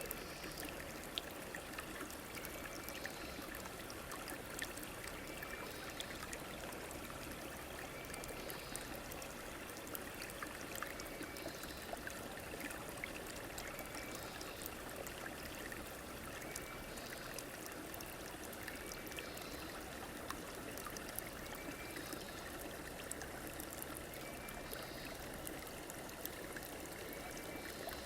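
River water flowing steadily, with small splashes and clicks through it. A faint short high note repeats about every two seconds over the water.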